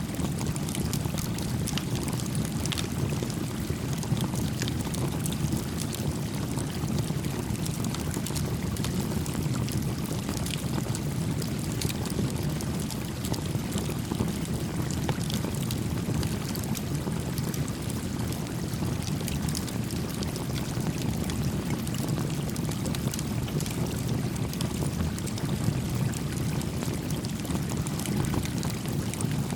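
A small campfire crackling with many small pops over the steady flow of a gentle stream.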